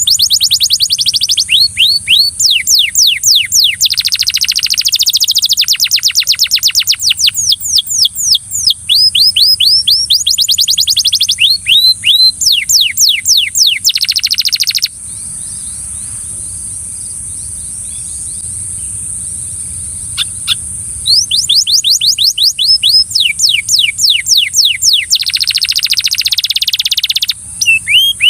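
Belgian canary singing: fast trills of rapidly repeated down-sweeping notes, rolling on in long runs, with a pause of about six seconds past the middle before the song starts again.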